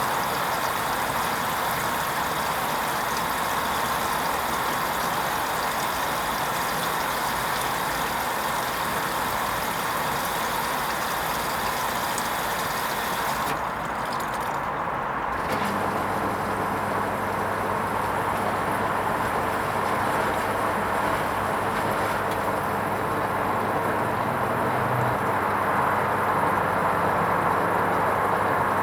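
Hoover Vision HVP16 washing machine running its wool rinse cycle: a steady rushing noise. About halfway through the high hiss briefly drops out, and then a steady low hum comes in and holds.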